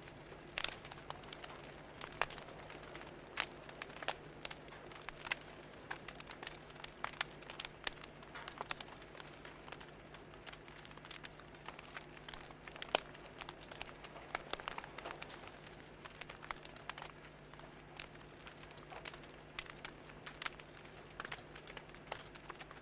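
Wood fire crackling, with irregular sharp pops and snaps all through.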